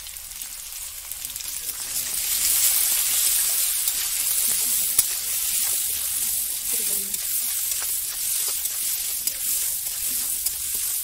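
Potato wedges frying in a metal wok, sizzling, the sizzle growing louder about two seconds in, with occasional clinks and scrapes of a metal spatula as they are stirred.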